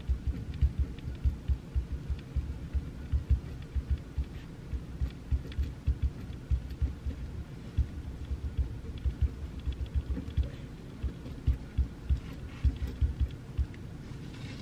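Pencil writing on paper on a desk: irregular soft knocks of the strokes, several a second, with faint scratchy ticks, over a steady background hiss.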